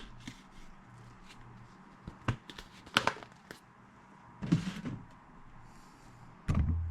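A few sharp plastic clicks and rustling as a Clorox disinfecting wipe is pulled from its canister. A low hum comes up near the end.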